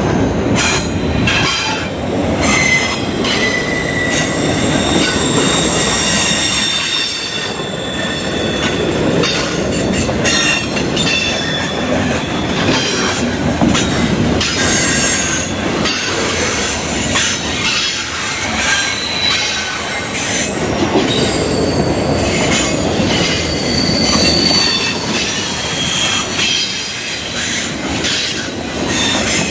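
Freight train cars rolling past on the rails: a steady rumble and clatter of the wheels, with high thin squealing tones from the wheels coming and going over it.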